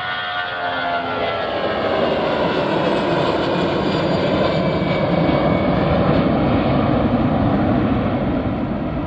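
Airliner engines passing close: high whining tones slide down in pitch, then a broad rushing roar builds to its loudest about six to seven seconds in.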